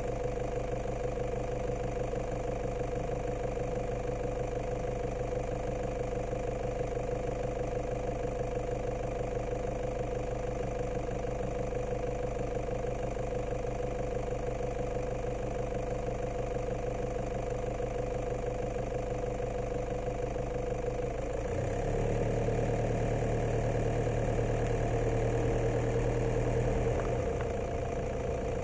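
Vehicle engine idling steadily. About three-quarters of the way through it revs up as the vehicle pulls away, then eases off near the end.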